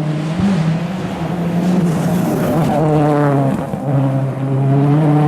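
Ford Fiesta RS WRC rally car's 1.6-litre turbocharged four-cylinder engine running hard at a near-steady pitch, with two brief dips in revs, about half a second in and near four seconds.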